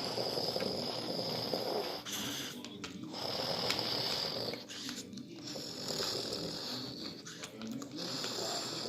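A person making rough, breathy mouth noises in stretches of a second or two with short breaks, imitating car-wash machinery in play.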